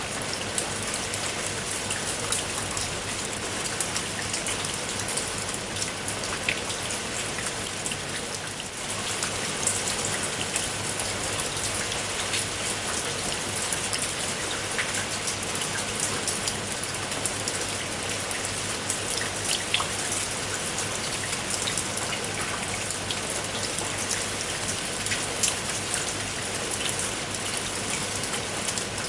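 Steady rain falling, a dense even hiss with many individual drops pattering and ticking on a surface.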